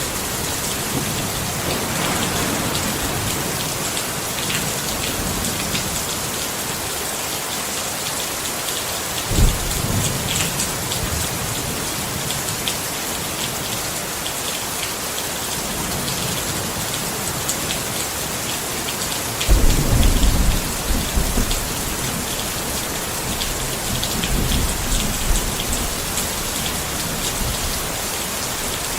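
Steady rain pattering on a tent, an even hiss with fine drop ticks throughout. Low rumbles of thunder rise over it about a third of the way in, and more strongly past two-thirds.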